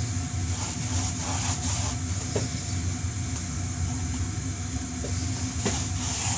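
Steady mechanical hum with a hiss, as from a running machine, with a few faint clicks and taps.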